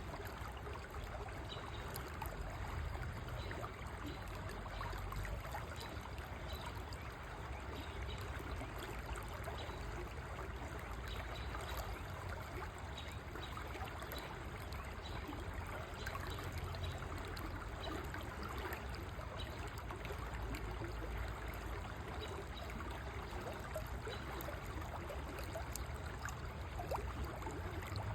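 A river or stream flowing steadily, with a continuous rush of water and small trickling, burbling splashes.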